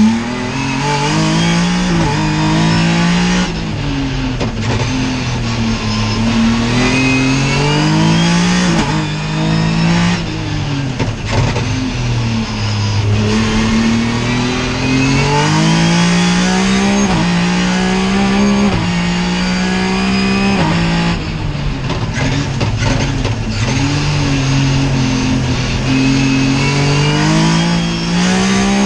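Racing car engine on a slalom run, revving up and falling back over and over, its pitch dropping suddenly at gear changes and on lifting off.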